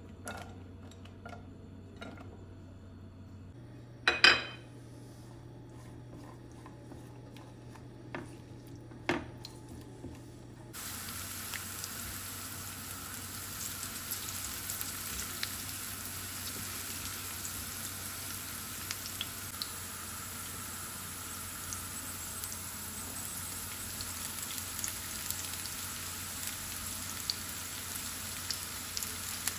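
Sliced carrots frying in oil in a nonstick pan: a steady sizzle with fine crackling, which comes in suddenly about eleven seconds in and carries on as they are stirred. Before that, a few knocks on the pan, one sharp and loud about four seconds in.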